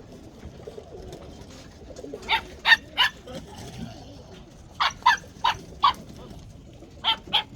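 Short, sharp animal calls, ten in all, in three quick groups of three, four and three.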